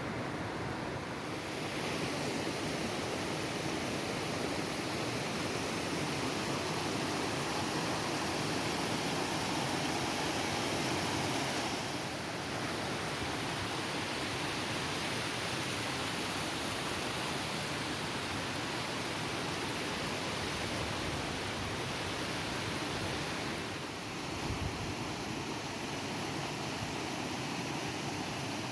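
Steady rushing of a waterfall, an even wash of falling water whose tone shifts slightly a few times.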